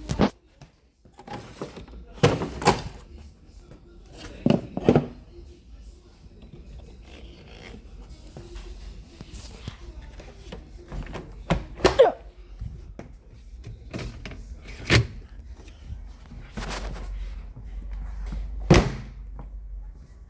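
Doors and detergent drawers of display washing machines being opened and shut, giving irregular thuds and knocks, about eight in all, over a low steady hum.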